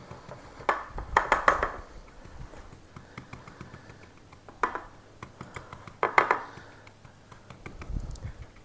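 Short bursts of knocking and scraping against a pie plate as an Oreo crumb crust is pressed in, a handful of times with pauses between.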